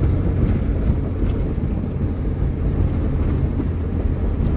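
Steady low rumble of a vehicle's engine and tyres, heard from inside the cabin while driving along a road.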